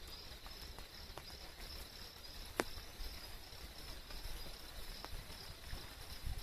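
An insect chirping in a steady high-pitched pulse, about two to three chirps a second, over a low rumble, with a single sharp click about two and a half seconds in.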